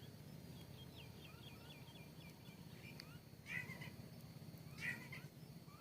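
Small birds chirping faintly: a quick run of short, high chirps in the first two seconds, then two louder calls a little over a second apart.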